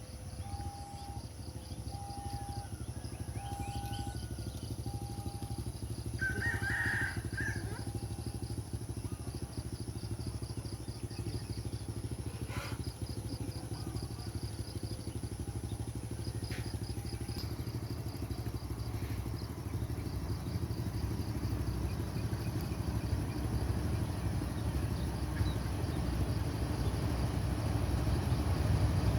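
Low rumble of an approaching train growing steadily louder, with a regular beeping tone about once a second that stops about halfway through. A short bird call comes about seven seconds in, over a faint steady insect chirr.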